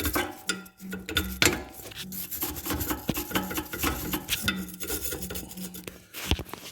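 A hand brush scrubbing rusty metal to break the rust loose: an irregular rasping scrape, broken by a few sharp knocks.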